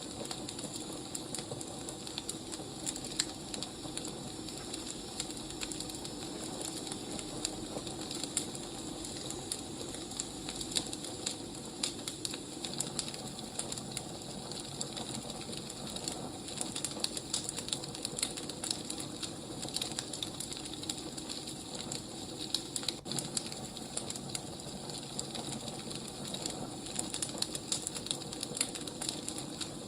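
Wood fire crackling: a steady soft hiss with frequent small, irregular pops and snaps.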